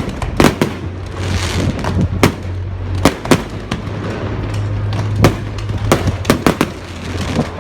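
Fireworks going off: a string of sharp bangs and crackles at uneven intervals, one with a brief hiss about a second and a half in, over a steady low rumble.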